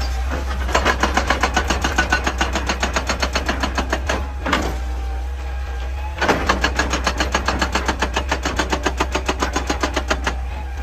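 Excavator-mounted hydraulic breaker hammering rock in rapid blows, about ten a second, in two runs of a few seconds with a short pause between, over the steady low drone of the excavator's engine.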